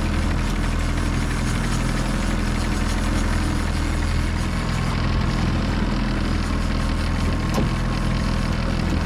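Boat engine running steadily at trolling speed, a low even drone with hiss over it.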